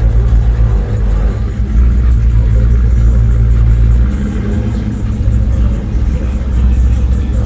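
A car's engine running with a loud, deep rumble, its low note shifting about four seconds in.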